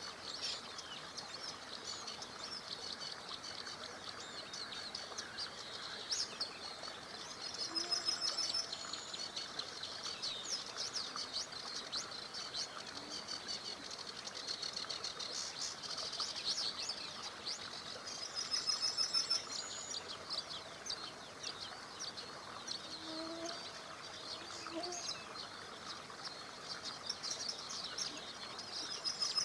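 Several songbirds singing over the steady rush of a small river: many short chirps, with rapid trills about 8 seconds in and again near 19 seconds.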